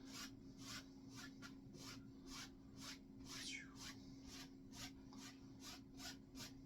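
Paintbrush stroking across a canvas: soft, quick brushing strokes about three a second, with a faint steady hum beneath.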